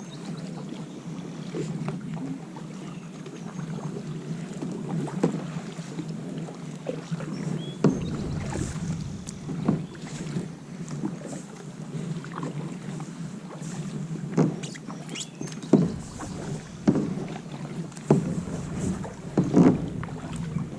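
Kayak paddle strokes in water: irregular splashes every second or two over a steady low rushing noise.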